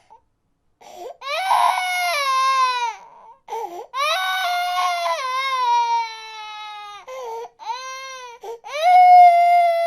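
An infant crying: after a moment's silence, four long wails that fall in pitch, with short gasping breaths between them.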